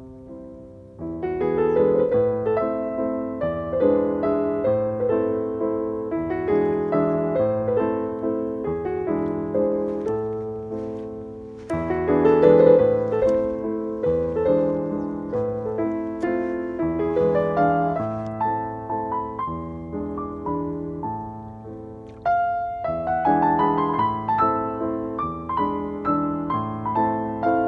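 Background piano music: a gentle melody over chords, with new, louder phrases starting about a second in, about twelve seconds in, and about twenty-two seconds in.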